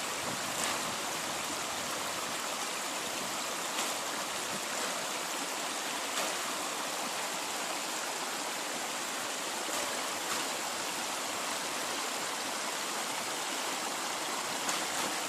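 The Zhane river flowing steadily, an even rush of water, with a few faint knocks now and then.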